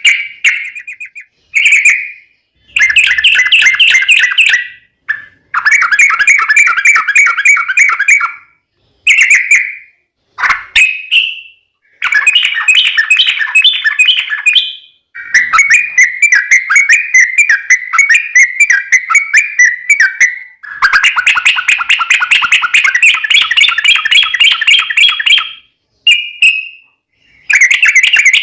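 Yellow-vented bulbul (trucuk) singing loud phrases of fast repeated chattering notes, each lasting one to several seconds with short pauses between: the long rolling 'ropel' song used as a lure to make other trucuk birds sing back.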